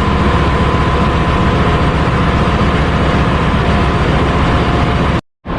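Loud, steady drone of ship's engine-room machinery running, a deep rumble with a faint steady whine above it. The sound cuts out completely for a moment near the end.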